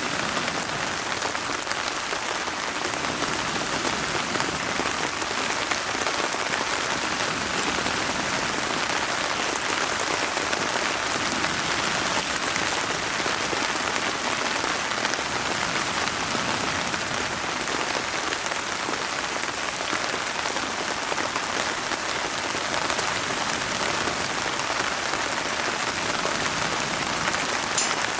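Steady rain falling, with a wood fire in a fire pit crackling lightly and one sharper pop near the end.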